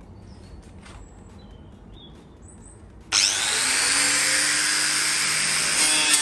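Power tool fitted with a small 100 mm abrasive stripping disc starting up suddenly about halfway in and running at speed, its whine climbing slightly as it spins up, with a change in tone near the end; it is used to clean old finish off bare metal in corners.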